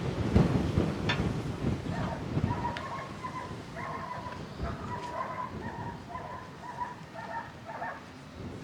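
Low rumbling wind and handling noise with a few knocks, then a run of short, repeated animal calls, one or two a second, in the background.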